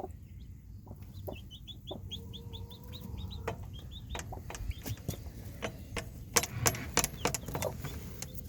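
Newly hatched chicks peeping in a quick run of short, high, falling peeps, about four a second, over a low steady call from the broody hen. In the second half, scattered clicks and taps.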